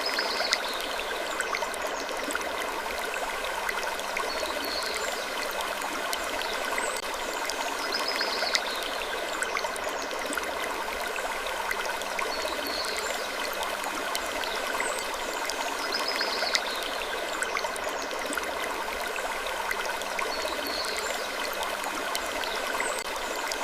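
Wood creaking ambience: short, faint creaks about every two seconds over a steady rushing hiss like running water.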